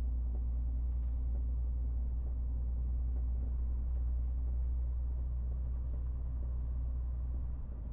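MAN TGX 18.470 truck's 12.4-litre straight-six diesel running with a steady low drone.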